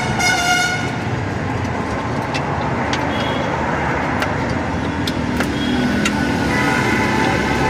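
Road traffic, steady, with a vehicle horn sounding until just under a second in and another horn starting near the end. A few sharp clicks are heard in between.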